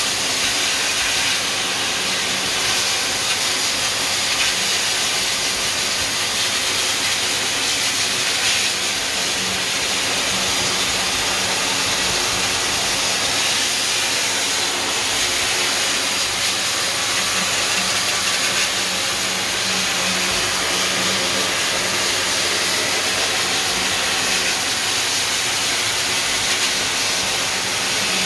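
Blow dryer running continuously: a steady rushing of air with a faint motor hum underneath.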